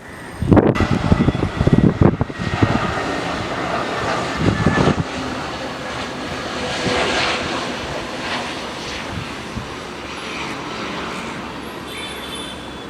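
Jet engines of an Airbus A320neo airliner on short final approach, a steady rushing jet noise that swells and then eases as it passes. Gusty wind buffets the microphone with heavy low rumbles over the first few seconds.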